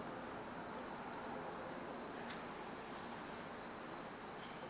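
Steady, high-pitched chirring of crickets, an unbroken insect trill with a fine rapid pulse, under a faint steady hum.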